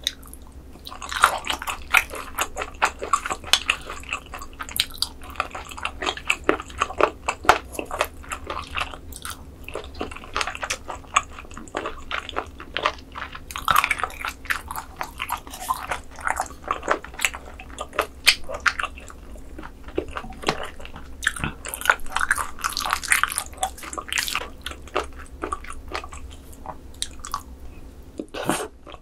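Close-miked chewing of raw squid sashimi noodles, with wet, sticky mouth sounds and many sharp clicks.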